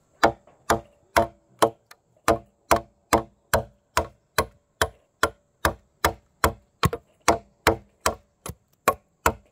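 Steady striking blows, a little over two a second and about twenty in all, each with a brief ringing tone.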